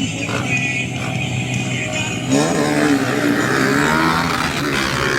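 Sport motorcycle engines running, then revving up louder about two seconds in, with the pitch climbing and wavering.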